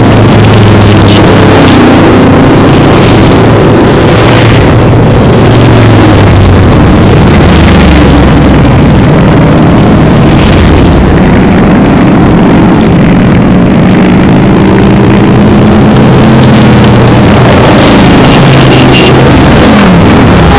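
Many motorcycles riding past in a continuous stream, their engines overlapping, loud and steady, with individual bikes' pitch sliding as they go by.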